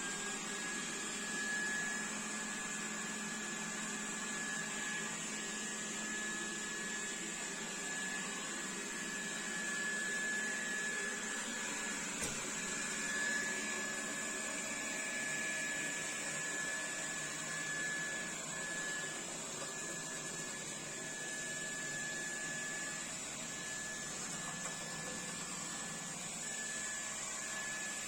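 Xiaomi Dreame D9 Max robot vacuum running, its suction fan motor giving a steady high whine over a hiss of air.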